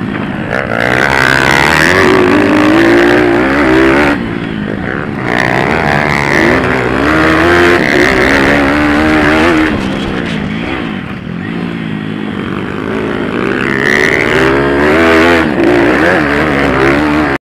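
Pit bike engines racing, revving up and easing off over and over so the pitch keeps rising and falling. The sound cuts off suddenly at the end.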